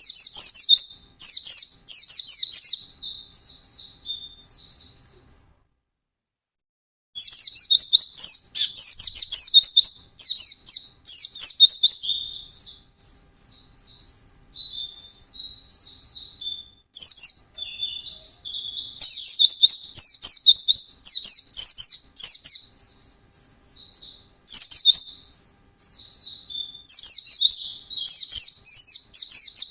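White-eye (pleci) singing a fast, continuous twittering song of rapid high notes, in phrases a few seconds long. The song stops for about a second and a half a fifth of the way in, then runs on.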